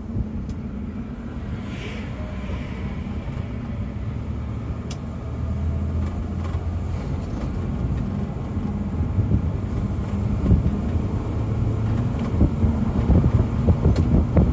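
In-cabin sound of a 1964 Mercedes-Benz 220 Sb's straight-six engine pulling away and accelerating, with tyre and road noise, growing gradually louder.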